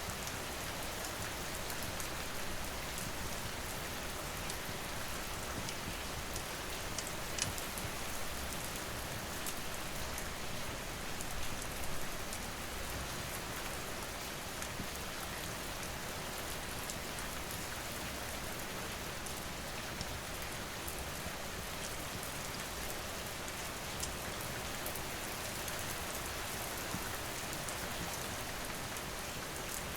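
Steady rain pattering, with occasional sharp crackles and pops from a wood fire.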